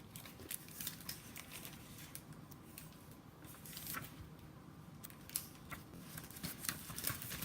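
Faint rustling and crackling of a picture book's paper pages being handled and turned, in scattered small clicks that cluster near the start and again toward the end.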